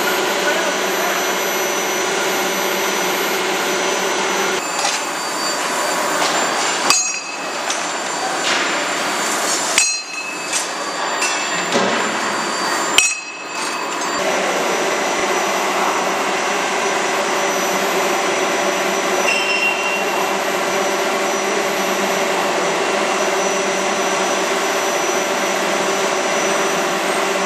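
CNC hydraulic die forging hammer (31.5 kJ) at work: steady machine running noise, with a run of sharp metal-on-metal blows in the middle, the three loudest about three seconds apart, each followed by brief ringing.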